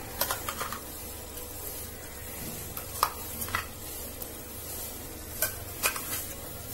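Onion-tomato masala and ground paste frying in oil in a pot, a steady low sizzle, with scattered sharp clicks of a wooden spatula against the pot.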